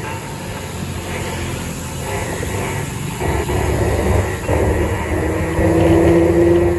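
Road and wind noise of a moving ride with a vehicle engine droning steadily, its drone strongest near the end.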